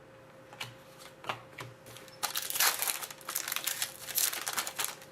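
Hockey cards and their plastic packaging being handled: a couple of light taps, then about three seconds of crinkling plastic.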